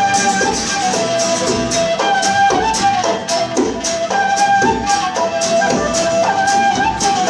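A live band playing an instrumental passage of a folk-style song, with no vocals. Held melody notes ride over a steady percussion beat.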